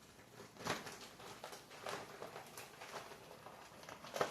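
Faint rustling and crackling of a plastic mini-greenhouse cover being handled and pushed back, with a couple of slightly louder rustles, one under a second in and one near the end.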